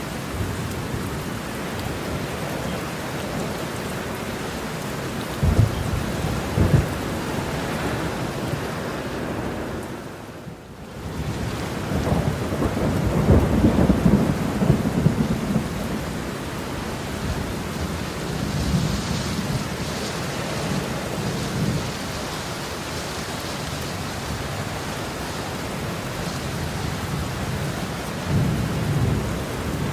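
Heavy rain falling steadily, with thunder: two sharp claps about five and a half and seven seconds in, a long rolling rumble from about twelve to fifteen seconds, and a softer rumble near the end. The rain briefly fades out and comes back about ten seconds in.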